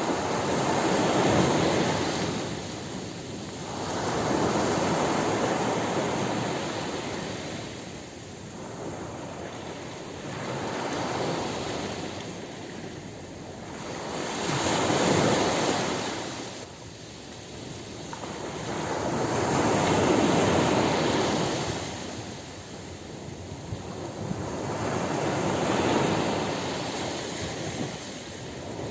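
Ocean surf washing onto a beach, waves breaking and receding in slow surges about every five seconds.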